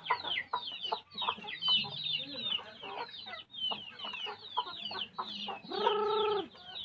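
Backyard native chickens: many chicks peeping in quick, falling chirps over hens clucking, with one longer drawn-out chicken call near the end.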